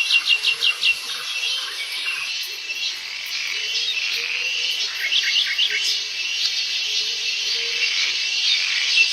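Forest chorus: a steady high insect drone, with a rapid run of short chirping calls at the start and another short run of four about five seconds in.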